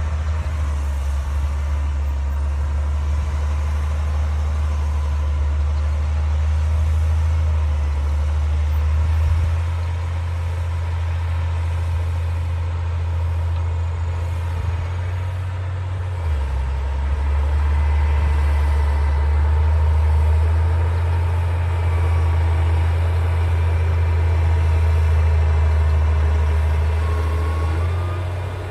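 D60 bulldozer's diesel engine running with a steady low drone; its pitch drops briefly about halfway through, then it picks up again.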